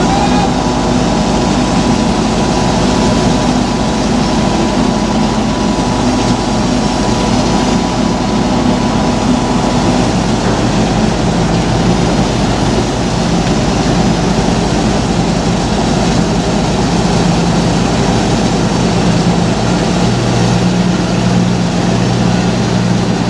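A boat engine running steadily under a constant wash of noise, its hum changing pitch about halfway through and again near the end as the engine speed changes.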